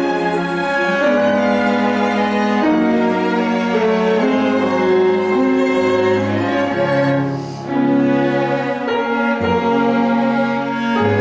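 Piano quartet playing classical chamber music: sustained violin and cello lines over piano, with a brief lull between phrases about two-thirds of the way through.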